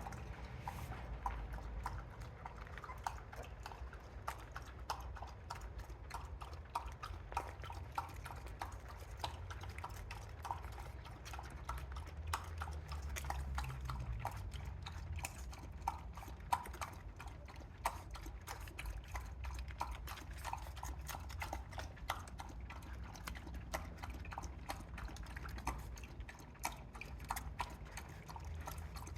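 A dog eating, its chewing making short, irregular crunching clicks several times a second.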